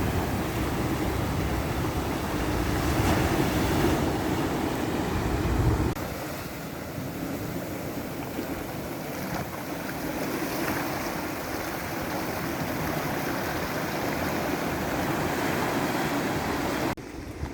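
Ocean waves washing on the shore, with wind rumbling on the microphone. The low rumble drops away suddenly about six seconds in, and the sound changes abruptly again near the end, as at a cut between recordings.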